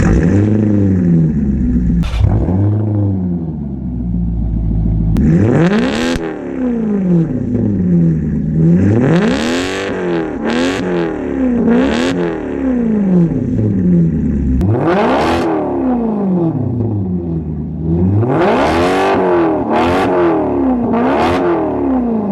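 Maserati GranTurismo V8 revved repeatedly through a muffler-delete exhaust with the resonators kept: about ten quick climbs and drops in engine pitch, some in fast pairs and triples, with a few sharp exhaust pops.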